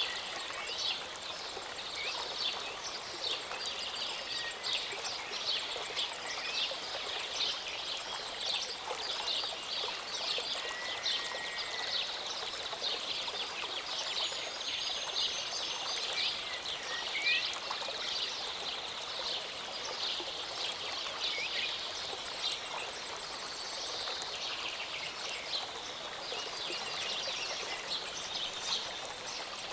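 Small mountain stream or waterfall running steadily, with birds chirping busily over it and now and then a longer whistled note.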